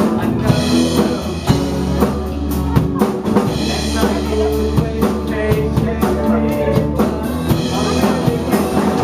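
Live band playing a pop-rock song, a steady drum-kit beat of kick and snare to the fore over sustained instrument chords.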